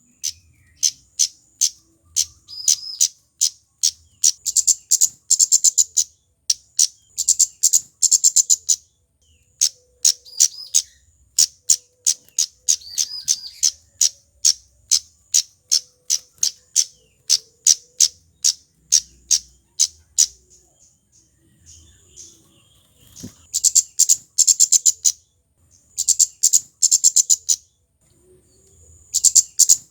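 Male kemade flowerpecker calling: a steady series of sharp, high-pitched ticks, two or three a second, broken several times by short rapid chattering runs. There is a pause of a few seconds about two-thirds of the way through.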